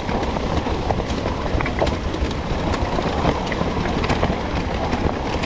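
Dirt bike engine running at low speed over a rough, rocky trail, with scattered clacks and rattles from stones and the bike.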